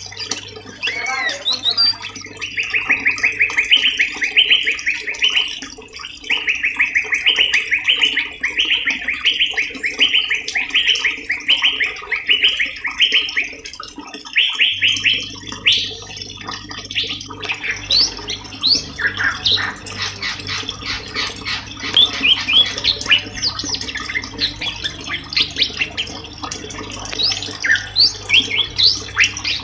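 Recorded songbird singing for tutoring cage birds: a fast trill of falling notes repeated in phrases of about a second for roughly ten seconds, then after a short break a rapid, varied stream of chirps and calls, over a steady low background.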